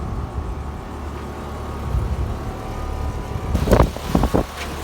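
Steady low hum of outdoor air-conditioner condensing units running, with a cluster of sharp knocks near the end.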